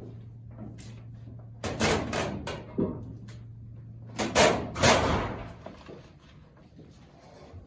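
Two loud bouts of knocking and clattering, like something banged or shut, about one and a half and about four seconds in, over a steady low hum that fades out about five and a half seconds in.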